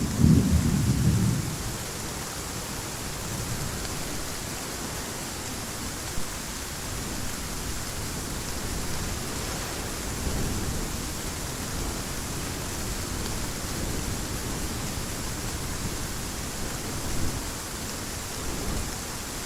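Heavy rain falling steadily, with a deep rumble of thunder that dies away in the first second or two and fainter rolls of thunder later on.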